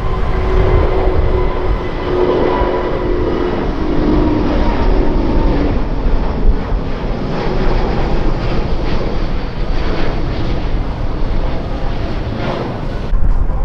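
Jet airliner engines passing close by, a loud steady rush with engine whine that slides down a little in pitch during the first few seconds.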